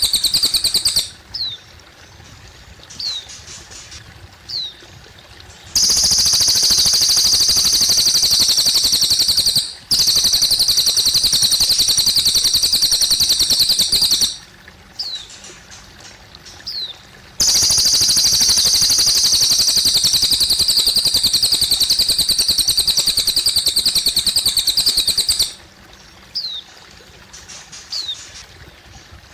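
Cililin bird singing: long, very rapid high trills lasting several seconds each, three times, with short falling chirps in the pauses between. A faint steady trickle of water runs underneath.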